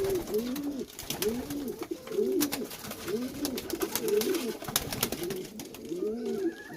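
Several domestic pigeons cooing, their rising-and-falling coos repeating and overlapping, with scattered sharp clicks and taps.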